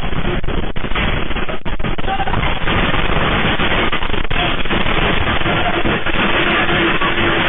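A loud, continuous roar of crashing and rattling with many crackling impacts, the noise of a structure collapsing or shaking violently in an earthquake. The sound is dull, with little treble.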